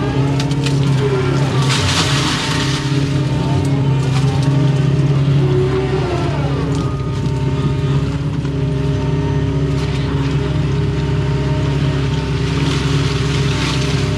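Doosan excavator's diesel engine running steadily under load, with hydraulic whine rising and falling as the controls are worked, heard from inside the cab. Two short bursts of hiss come about two seconds in and near the end.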